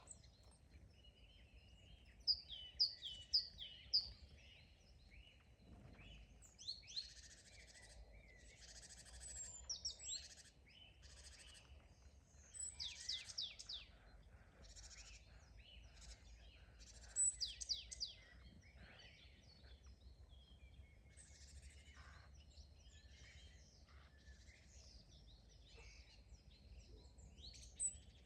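Several songbirds singing and calling over one another in quick chirps and sweeping notes, with louder bursts of rapid falling notes now and then. A faint low rumble lies underneath.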